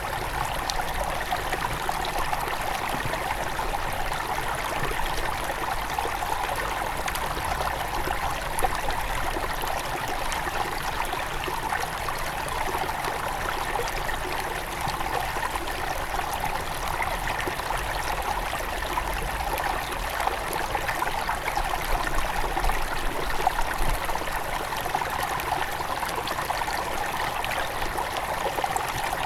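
Small forest river at its headwaters flowing steadily over stones, a constant rushing and trickling with no breaks.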